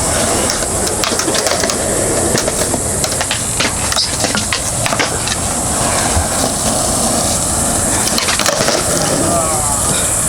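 Skateboard wheels rolling on concrete with sharp clacks of the board, over a steady high-pitched buzzing of a cicada chorus.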